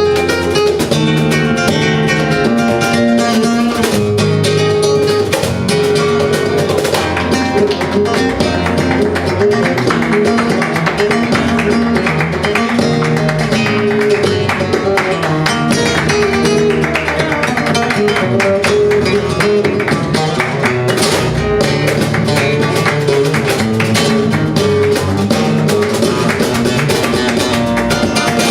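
Flamenco guitar played live: a steady, dense run of fast plucked notes.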